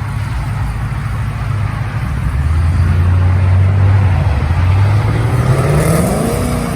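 Car engine and exhaust running with a deep, steady drone that grows louder, then revving up with a sharply rising pitch near the end.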